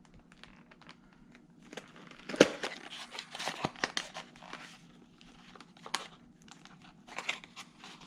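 Packaging being opened by hand: irregular crinkling and tearing with scattered clicks, and one sharp snap about two and a half seconds in.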